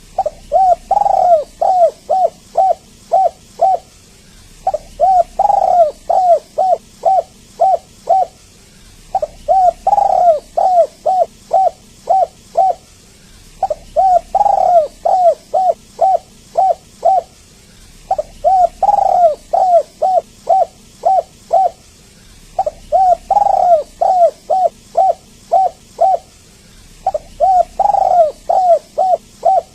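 Spotted dove (tekukur) cooing, a recorded lure call. Phrases of about ten short coos, one of the early notes longer and louder, repeat about every four and a half seconds.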